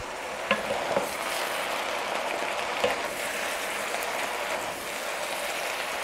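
Pork and vegetable spring-roll filling sizzling steadily in a wok as it is tossed with two wooden spatulas. A few light knocks of wood against the pan come through.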